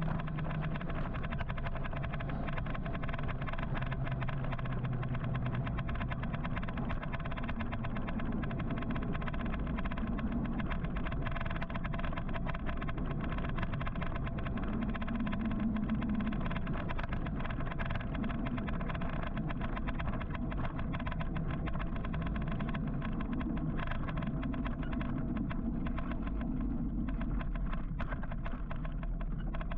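Steady road traffic noise heard from a moving electric motorcycle: a continuous rumble of surrounding cars and tyres on the road.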